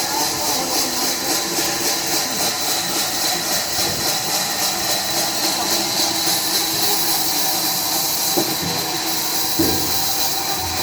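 Sawmill machinery running with a steady, high hiss that pulses rapidly, over a lower mechanical hum. Two short knocks come near the end.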